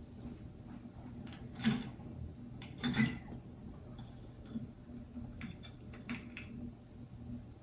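Vintage Sears ceiling fan's motor humming steadily on low speed, with a few sharp clicks and ticks about two, three and six seconds in.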